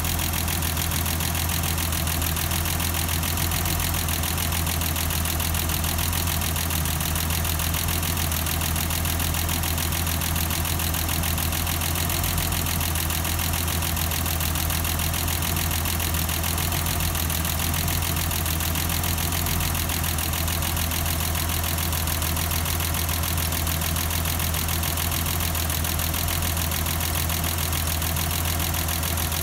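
BMW M20B25 straight-six engine of a 1989 325i idling, a steady low drone that does not change.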